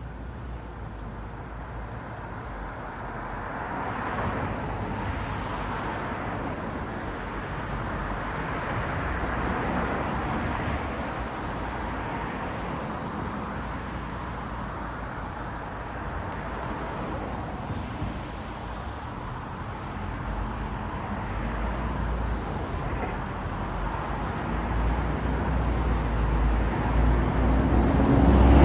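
City road traffic: cars passing in a steady stream, the tyre and engine noise swelling and fading as each goes by, with one vehicle passing close and loud near the end.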